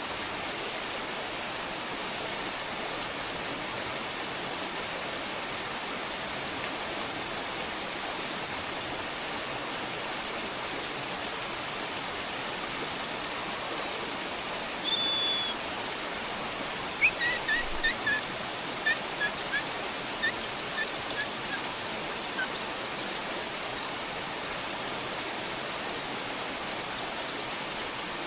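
A steady rushing hiss throughout, with a bird's short high whistle about halfway through and, two seconds later, a quick series of short chirps lasting about five seconds, falling in pitch and spacing out toward the end.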